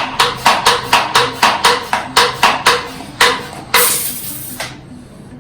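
Hand-pumped foam sprayer's nozzle spitting foam in quick bursts, about four to five a second, as its tank pressure runs low, followed by a longer hiss of spray near the end.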